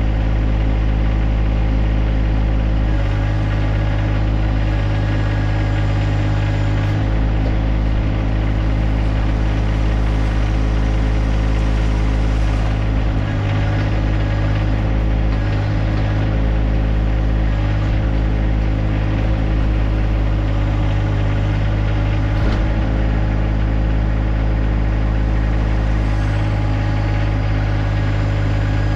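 John Deere 1025R compact tractor's three-cylinder diesel engine running steadily while working the 260B backhoe, its note shifting slightly about three seconds in and again near the end.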